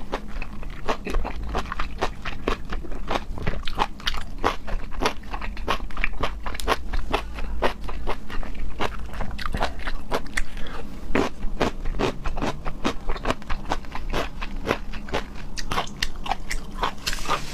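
A person chewing and biting food close to the microphone: a dense run of crisp clicks, several a second.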